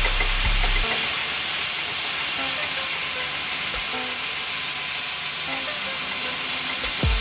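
Angle grinder's abrasive wheel grinding steadily with a hissing rasp against the edge of a spinning brake disc, taking off the wear lip that causes the brakes to squeal.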